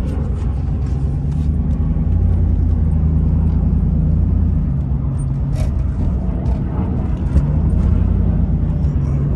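Chevrolet Camaro engine heard from inside the cabin while driving, its note climbing about two seconds in, easing off midway and climbing again near the end. It runs cleanly on freshly replaced spark plugs after having been misfiring.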